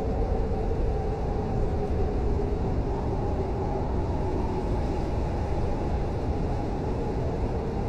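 Blizzard wind blowing steadily: a deep, even rumble with a faint wavering tone on top.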